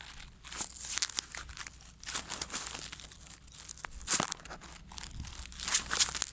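Irregular rustling, crinkling and clicking handling noise as the recording phone is moved and propped in place.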